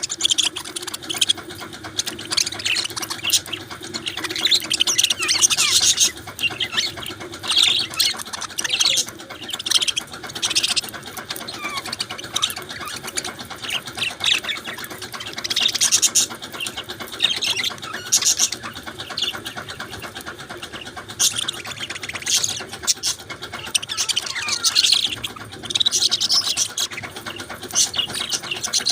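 Budgerigars chirping and chattering: a near-constant run of quick, high-pitched chirps and warbles.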